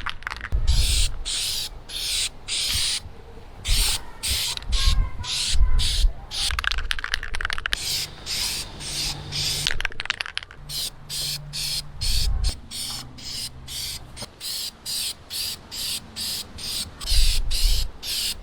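Aerosol can of truck bed coating spraying in many short hissing bursts, one quick pass after another, coming faster in the second half, as a second coat goes onto plastic bumpers.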